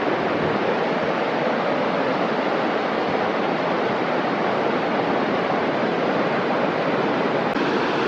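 Steady, loud rush of fast-flowing water, such as a stream or waterfall.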